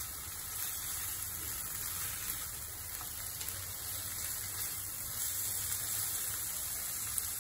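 Chicken liver and gizzard pieces frying in oil in a nonstick pan: a steady sizzle while they are stirred with a silicone spatula, with a few faint soft knocks.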